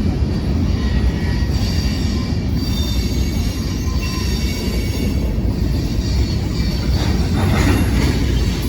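Freight train rolling past: a steady heavy rumble of railcars on the track with thin, high wheel squeal, swelling briefly near the end.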